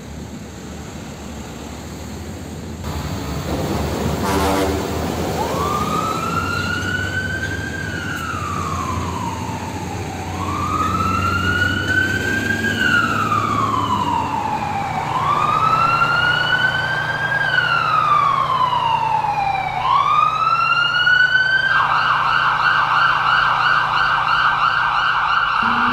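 A vehicle engine rumbles past, then an emergency-vehicle siren wails, each cycle rising quickly and falling slowly over about four to five seconds. Near the end it switches to a fast warble.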